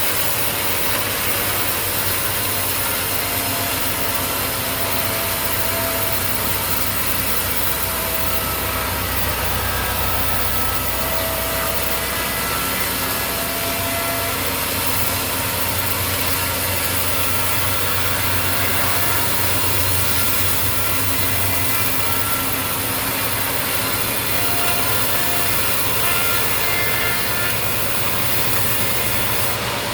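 Sawmill saw cutting steadily through a mahogany log, with a motor running underneath and a faint wavering whine from the blade.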